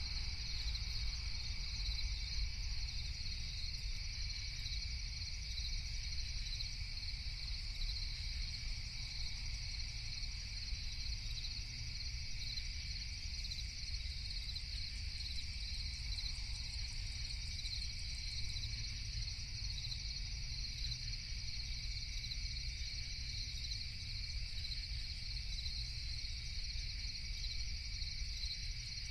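Steady night chorus of crickets trilling without a break, over a low rumble.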